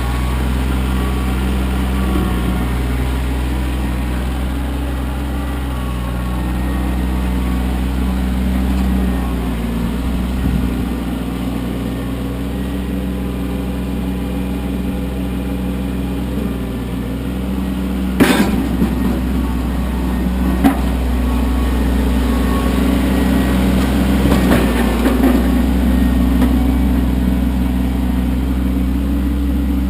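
Kioti CK25 compact tractor's diesel engine running steadily, with slow changes in engine speed. A few sharp knocks come through, the loudest just over halfway through.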